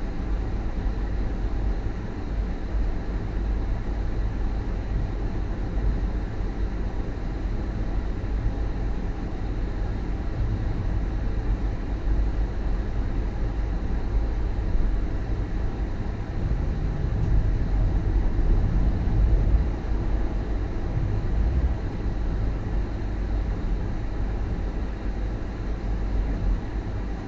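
Steady low rumble of a moving passenger train heard from inside a double-decker coach, growing a little louder about two-thirds of the way through.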